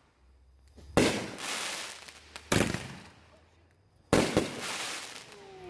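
Consumer fireworks going off: three loud bangs about a second and a half apart, each trailing into a crackling, echoing fade.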